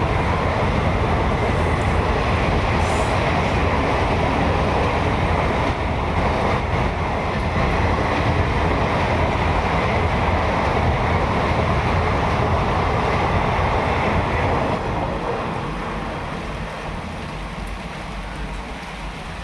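Passenger train running past, the steady loud rolling noise of its wheels and coaches on the track, which fades away over the last few seconds as it recedes.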